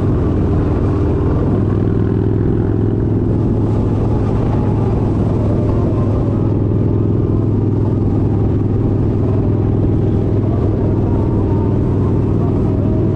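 Kawasaki Vaquero 1700cc V-twin motorcycle engine running steadily with a low hum and no change in revs.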